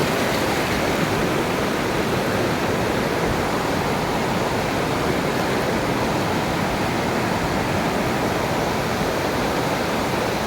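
Waterfall pouring into a mountain stream: a steady, loud rushing of falling water.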